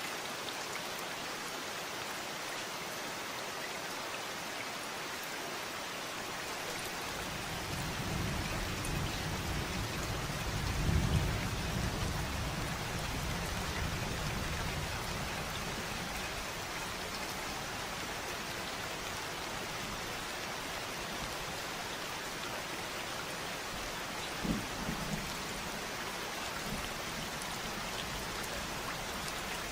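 Steady rainfall hissing evenly. A low rumble of distant thunder swells a quarter of the way in, peaks and slowly fades, and a brief low rumble follows near the end.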